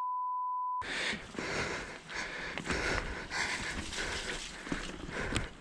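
A censor bleep, one steady beep-tone with all other sound muted, for just under a second at the start. After it, the rumbling, rattling noise of a mountain bike being ridden down a wet dirt trail, with wind on the camera microphone.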